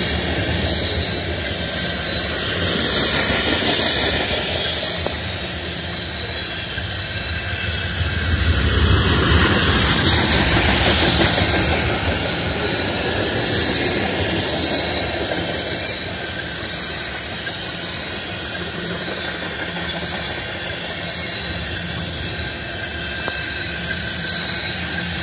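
Empty ethanol tank cars of a freight train rolling past at speed, their steel wheels running on the rails in a steady, noisy rumble that swells louder about nine to eleven seconds in.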